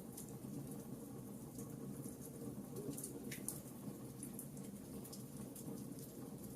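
Campfire burning with a steady low rumble and frequent small sharp crackles and pops scattered throughout.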